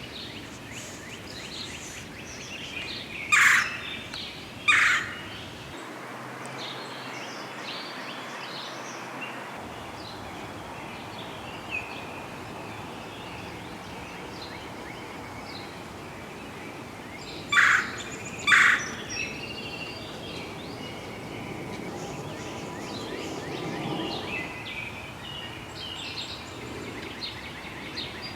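Two pairs of loud, short, harsh bird calls, one pair a few seconds in and another about halfway through, over a background of small birds chirping and singing.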